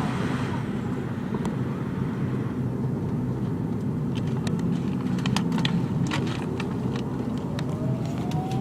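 Steady low rumble inside the cabin of a McDonnell Douglas MD-83 airliner, with scattered sharp clicks and knocks in the middle and a rising whine that starts near the end.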